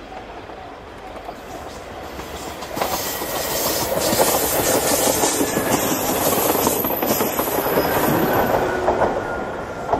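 A KiHa 66 series two-car diesel railcar passing close by, its wheels clattering over the rail joints as its diesel engine runs. The sound builds sharply about three seconds in, stays loud while the train goes by, and fades near the end.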